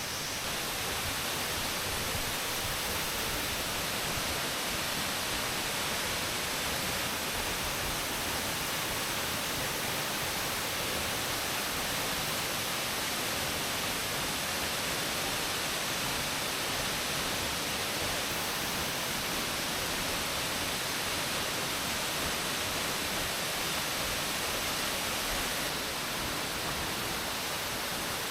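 Steady rushing roar of falling water from a waterfall.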